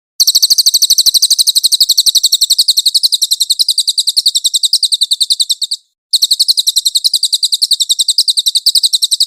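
Cililin bird singing: a high-pitched trill of rapid, evenly repeated chirps, about ten a second, in two long runs with a brief break about six seconds in. It is a clean masteran recording, the kind played to caged songbirds to teach them this song.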